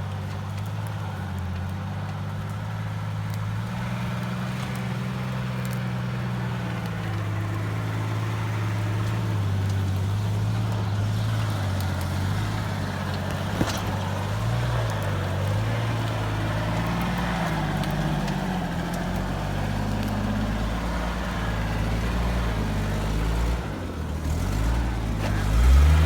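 Off-road 4x4's engine running at low revs with its pitch drifting gently as it crawls through a rough section. There is one sharp knock about halfway through, and a louder low surge just before the end.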